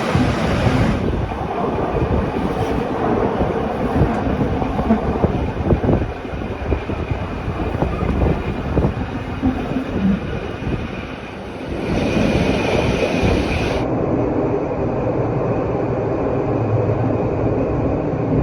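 A Rhaetian Railway regional train running on the track, a steady rumbling noise full of irregular wheel clicks and knocks. The sound changes character abruptly twice near the end.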